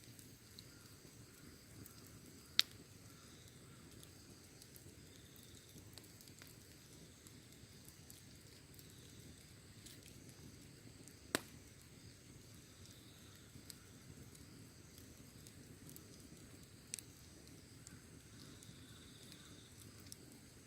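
Wood fire burning quietly: a faint low hiss with a few sharp pops of burning wood, the loudest about three seconds in and others about eleven and seventeen seconds in.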